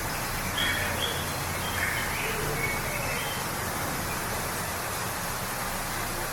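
Steady rush of a waterfall, with a bird giving a series of short, high calls over the first three seconds.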